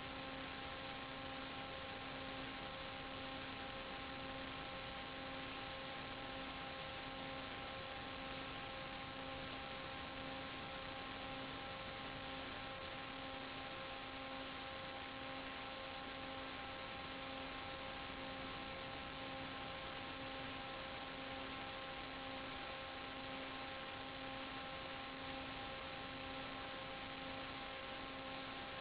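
Steady electrical hum with a few evenly spaced overtones over a constant hiss, unchanging throughout.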